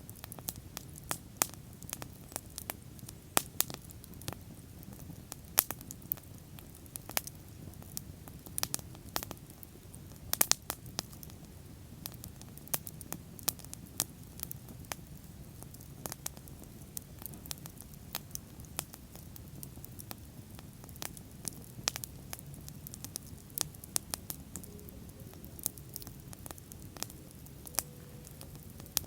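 Wood bonfire crackling, with irregular sharp snaps and a few louder pops over a steady low rumble of the flames.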